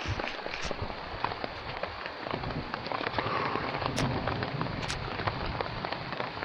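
Small hailstones falling steadily, a dense patter of tiny ticks on the ground and clothing, with a couple of sharper clicks about four and five seconds in.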